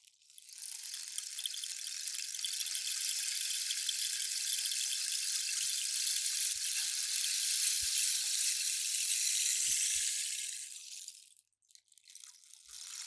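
Rainstick tipped over: a long, rain-like pattering of pebbles trickling through the tube that builds within half a second, runs about ten seconds and then tapers away. It starts again just before the end as the stick is turned once more.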